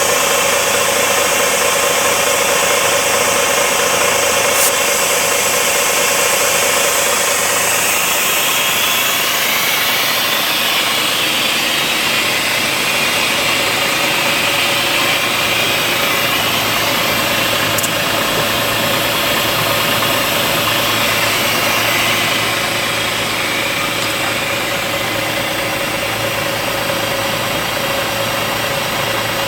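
Diesel engine of an IVECO/Astra 8x8 heavy truck idling steadily under a continuous hiss of air venting as its central tire inflation system deflates the tires. The sound eases slightly near the end.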